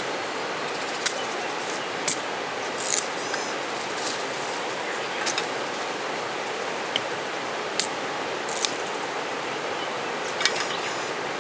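Mountain stream flowing steadily, with a campfire crackling over it: about nine sharp, separate pops and snaps at irregular intervals.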